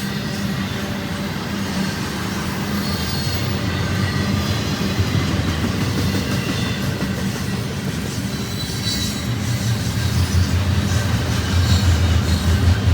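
Union Pacific intermodal stack train rolling past, a steady rumble of wheels on rail with some faint high wheel squeal, growing a little louder toward the end.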